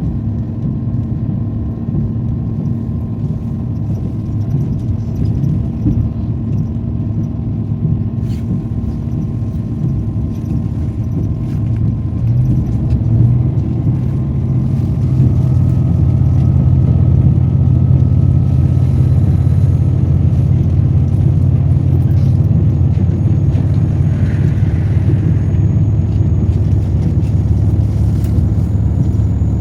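Limited Express Soya diesel train running with a steady low rumble and a faint engine hum, which gets louder and higher around the middle as it picks up power.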